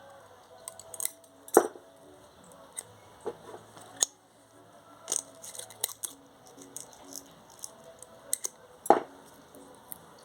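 Scissors snipping a thin strip of aluminium cut from a drink can: a series of sharp, irregular snips and clicks, the two loudest about a second and a half in and near the end.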